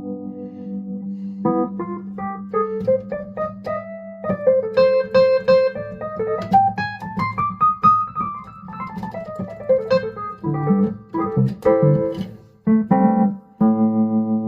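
Electric keyboard playing a solo passage: a held chord, then a quick run of notes climbing and falling back, then short stabbed chords, a brief break near the end, and another held chord.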